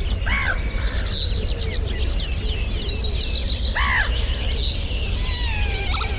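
Birds singing at dawn: many small birds chirp and twitter high up, with two louder, lower arching calls near the start and about four seconds in, over a steady low rumble.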